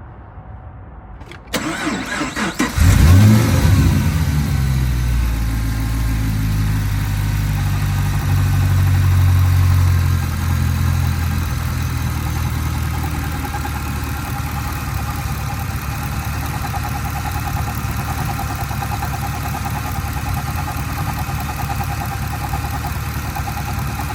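2010 Camaro SS's 6.2-litre V8 cranked by the starter about a second and a half in, catching and flaring up, then running at a fast idle that settles lower about ten seconds in. This is the engine whose knocking noise the owner is chasing.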